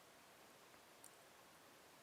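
Faint, sparse crackling of logs burning in a fireplace: one small pop about a second in, over a steady low hiss.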